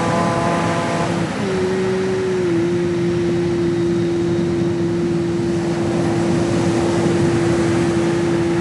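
Steady rush of ocean waves, with one long held tone over it that dips slightly in pitch about two seconds in and then holds.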